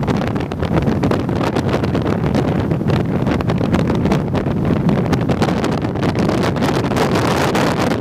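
Strong wind buffeting the microphone: a loud, steady rush with rapid gusty crackles throughout.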